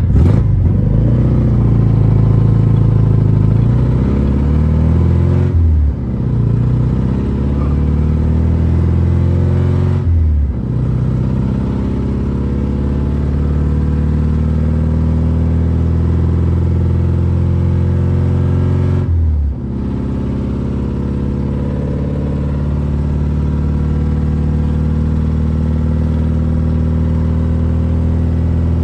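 Straight-piped four-cylinder engine of a BMW E36 with a cheap parts-store muffler, accelerating hard from a stop. The engine note climbs, then drops briefly three times as he shifts up through the gears of the manual gearbox, and settles into a steadier cruise near the end.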